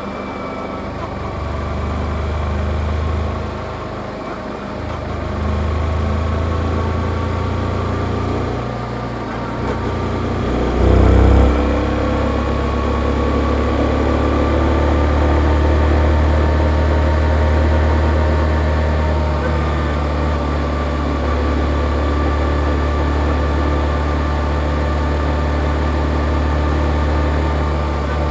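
Yamaha XSR155's single-cylinder engine through its stock exhaust during a ride, the engine note rising and falling with the throttle, with a brief loud burst about eleven seconds in.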